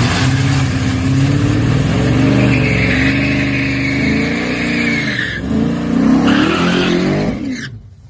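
Drag-strip race car engine revving hard, its pitch rising and falling, with a high squeal over it through the middle. It drops away sharply near the end.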